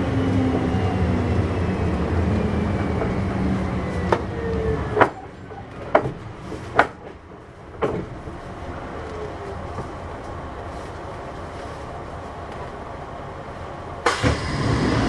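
Kintetsu 6200-series electric train heard from on board, slowing with a falling motor whine and coming to a stop about five seconds in. A few sharp clicks and knocks follow as it settles, then a quieter steady stand. A sudden loud noise starts near the end.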